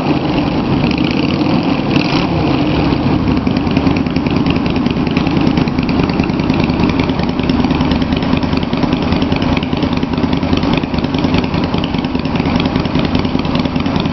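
Yamaha V Star 250's air-cooled V-twin running steadily at idle through West Eagle drag pipes with fiberglass-wrapped baffles fitted. The exhaust note is gutsy but not too loud.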